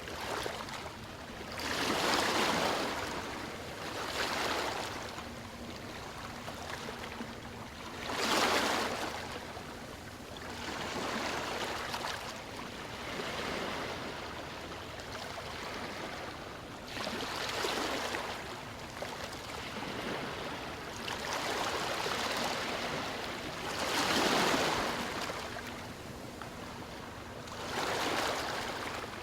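Ocean waves breaking and washing ashore in repeated surges a few seconds apart. The surges vary in strength, and a few stand out as louder.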